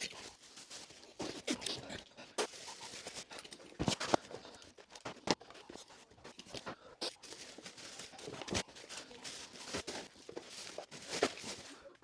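Irregular knocks, taps and scrapes of hand work, with a few sharper knocks now and then.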